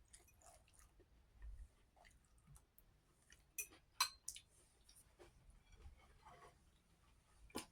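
Near silence: quiet room tone with a few faint, short clicks, two of them close together about three and a half to four seconds in.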